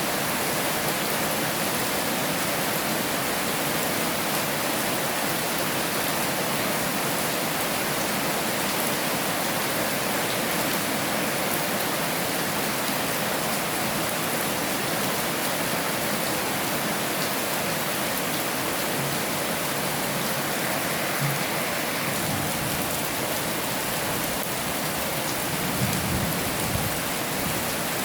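Heavy rain falling steadily, a dense even hiss of drops on a surface. A few low knocks come through in the last several seconds.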